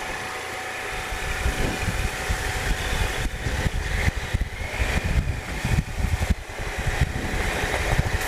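Triumph Explorer 1215cc three-cylinder engine running as the motorcycle rides along, getting louder from about a second in, with wind rumbling on the camera microphone.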